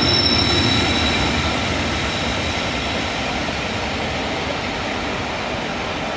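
Passenger train running past: a steady rolling noise of wheels on rail that slowly fades, with a faint high-pitched squeal in about the first second.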